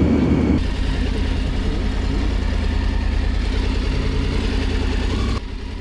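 Triumph Tiger 900 GT Pro's inline-triple engine running steadily under way, with wind and road noise over it. Near the end the sound drops abruptly to a quieter, duller drone.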